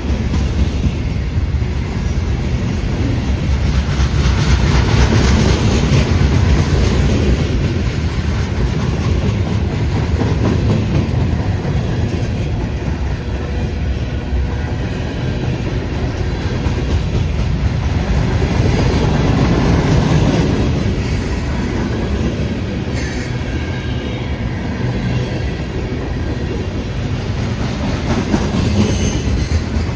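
Freight train cars rolling past close by: a steady rumble and clatter of wheels on the rails, with short high wheel squeals several times in the second half.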